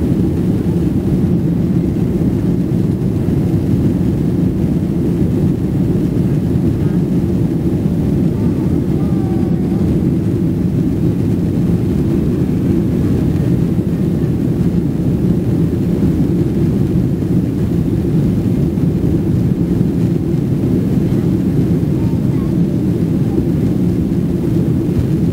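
Steady low rumble of a jet airliner's engines and airflow heard inside the passenger cabin in flight.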